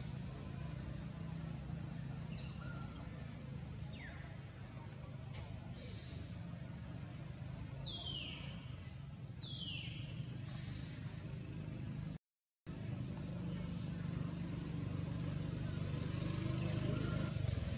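A bird's short chirps, repeated about once or twice a second, over a steady low hum. Two longer downward-sliding calls come about 8 and 9.5 seconds in, and the sound cuts out for a moment just past two-thirds of the way through.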